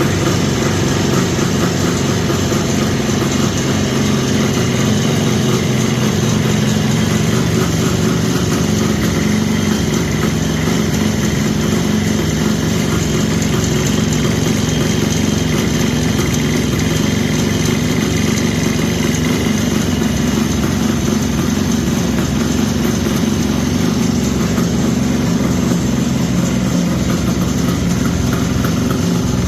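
Kawasaki H2 750's air-cooled two-stroke three-cylinder engine idling steadily after being started.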